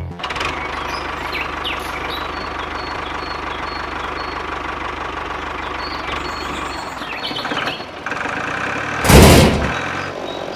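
Small mini diesel water-pump engine running steadily with a fine rapid pulse. A brief loud rush of noise about nine seconds in.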